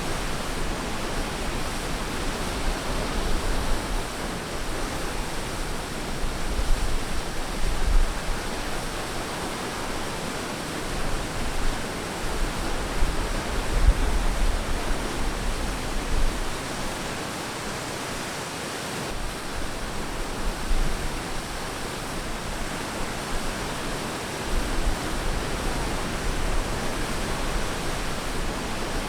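Ocean surf on a beach: a steady rushing wash of waves, with low rumbling swells every several seconds as waves break.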